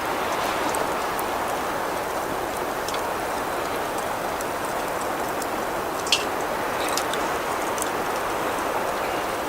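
Steady rain falling, a constant hiss with scattered light ticks of drops, one sharper tick about six seconds in.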